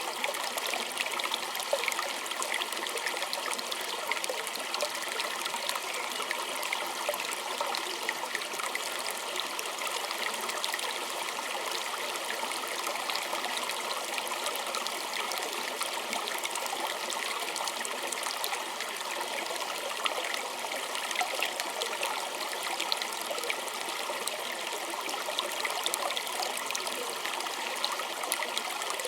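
Small stream flowing steadily, water trickling and splashing over stones in a continuous bright babble.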